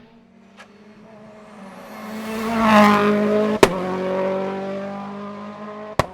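A hillclimb race car passing at speed, its engine note swelling to a peak about halfway through and dropping in pitch as it goes by. A sharp crack cuts through just after the loudest point, and another near the end.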